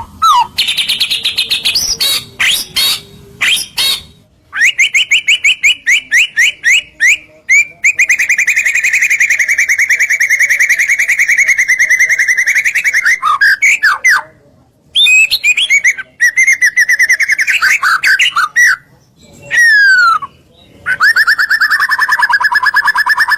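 White-rumped shama (murai batu) in full song: sharp clicking notes and quick phrases, then long, very rapid trills held near one pitch, broken by short pauses and a few quick downward-sweeping whistles.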